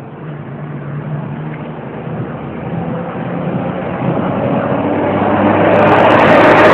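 A motor vehicle's engine growing steadily louder as it approaches.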